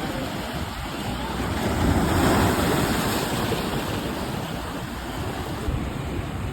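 Ocean surf breaking and washing up the shore, swelling to a louder surge about two seconds in.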